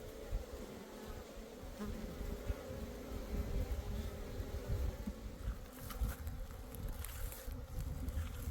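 An insect buzzing steadily, fading out about halfway through, over a low rumble, with a couple of sharp clicks near the end.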